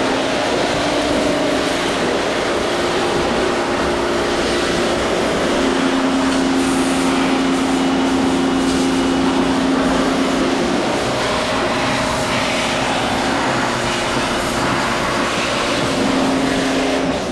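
A motor-driven cleaning machine running steadily: a broad hiss with a hum underneath that fades out and comes back a couple of times.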